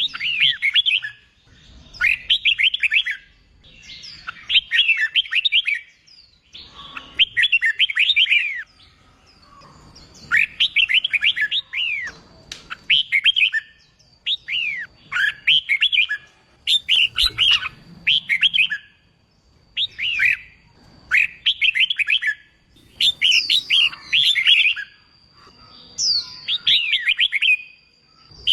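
Red-whiskered bulbul singing: short, fast, warbled phrases repeated every one to two seconds.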